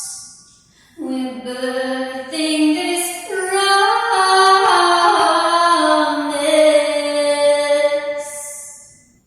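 A woman singing a slow worship melody in long held notes, with short breathy hisses between phrases; the singing fades out about nine seconds in.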